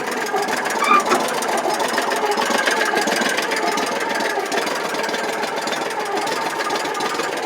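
Subaru engine of a 2014 Landmaster LM650 utility vehicle idling steadily, freshly started with its fuel valve now turned on.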